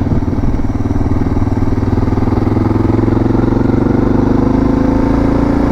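Suzuki DR650's single-cylinder four-stroke engine running as the motorcycle is ridden, its note rising a little partway through as it picks up speed.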